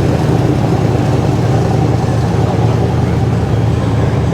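Car engine running at low speed with a steady, low-pitched, pulsing sound.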